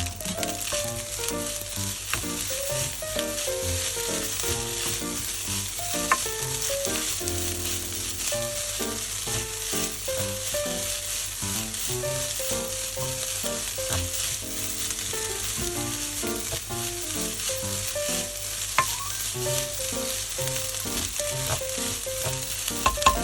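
Fried rice sizzling in a frying pan and being stirred, with a steady hiss, an occasional sharp clink, and a quick run of strikes near the end. Background music plays underneath.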